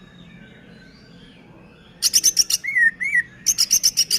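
Green leafbird (cucak ijo) singing, with imitated squirrel chatter and kekes calls in its song. About halfway in it breaks into a fast series of harsh chips, then two short arched whistled notes, then another fast run of chips.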